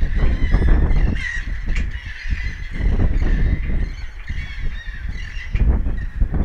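Birds calling in short, harsh squawks again and again, over a loud, unsteady low rumble.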